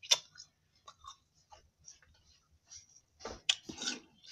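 Chewing and crunching on a frozen freeze pop close to the microphone: a sharp crunch at the start, a few small scattered clicks, then a cluster of crunches about three seconds in.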